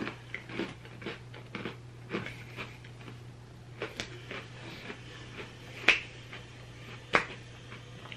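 A person chewing a Golden Oreo cookie with mouth closed: irregular soft crunches and mouth clicks, with two sharper clicks in the second half. A steady low hum runs underneath.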